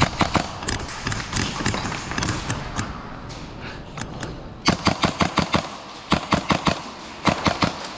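Airsoft guns firing in quick full-auto bursts, a rapid clatter of sharp shots about eight a second. This comes in three short strings in the second half, after scattered single clicks and knocks.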